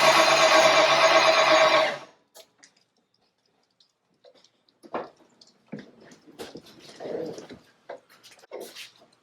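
The starter cranks the Ford 5.0 V8 over without it firing, turning the engine for a compression test, and stops about two seconds in. After that come scattered light clicks and taps.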